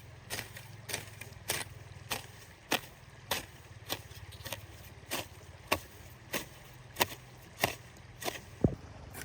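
Rhythmic strikes, about one every 0.6 s, each a short sharp knock, over a steady low hum. The loudest knock comes near the end.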